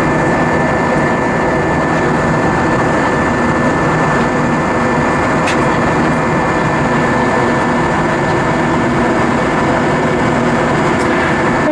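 Steady jet airliner cabin noise inside an Airbus A320-232 with IAE V2500 engines: an even rush of engine and airflow noise with a thin, steady high tone above it.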